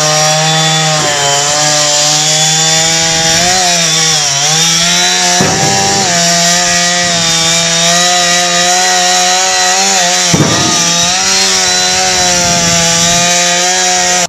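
Chainsaw running at high speed and cutting wood, the engine pitch sagging briefly as the chain bogs in the cut a few seconds in.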